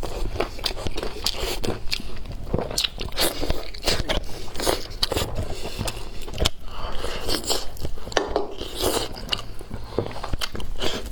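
Close-miked eating: irregular crunchy bites and chewing, with many sharp little clicks and crackles.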